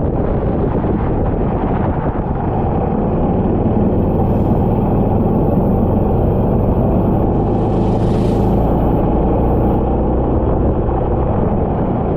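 Racing kart engine running steadily under load, heard onboard, with a brief rush of hiss about eight seconds in.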